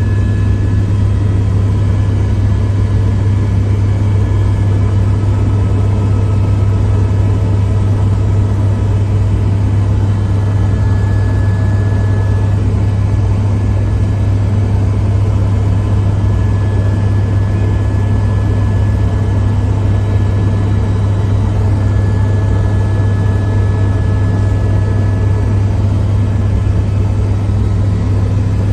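A steady low engine drone that holds unchanged throughout.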